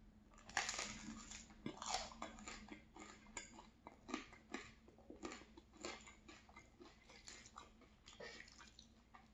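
Close-up chewing and biting of linguine in tomato sauce and crusty baguette bread: a string of irregular small crunches and mouth clicks.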